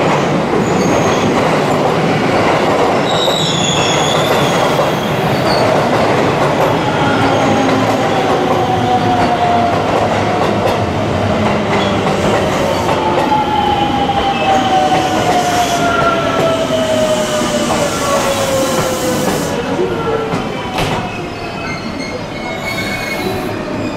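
Haruka limited express electric train rolling slowly into a station: wheels rumbling over the rails with some wheel squeal, and a thin whine that falls steadily in pitch as the train slows. The sound eases a little near the end.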